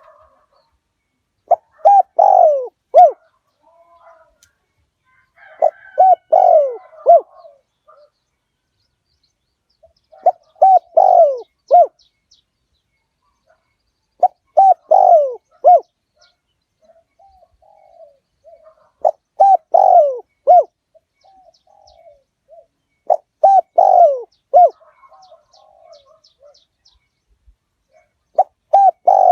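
Spotted dove cooing: a short phrase of several coos, repeated about every four seconds. It is a decoy dove's song, used to call wild spotted doves in.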